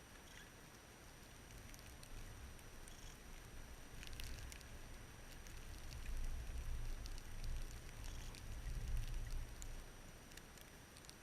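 Blizzard wind rumbling in gusts, swelling about four seconds in and easing near the end, with faint scattered ticks.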